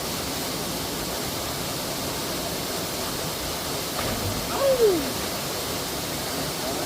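Steady rushing of a waterfall, with a short cry whose pitch falls, about four and a half seconds in.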